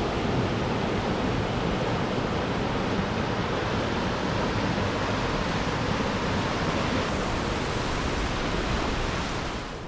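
Steady rush of fast-flowing mountain river water, an even hiss with no rhythm, dropping away near the end.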